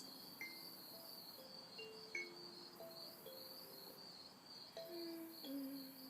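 Night insect chorus, a steady pulsing high trill, under a slow, soft melody of held notes that step from one pitch to the next, with a few brief high chirps.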